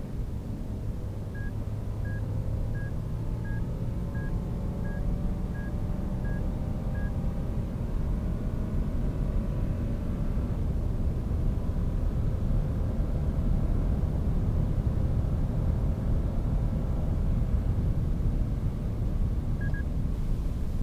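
A 2015 Lexus LX570's 5.7-litre V8 accelerating hard under load, a deep rumble that builds in loudness as its note climbs. Over the first several seconds a vehicle chime beeps about nine times at an even pace, and a short double beep sounds near the end.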